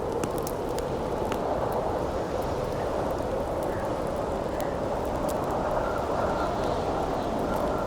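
Wind blowing steadily through a snowstorm, with the sharp, scattered crackles and pops of a wood campfire over it.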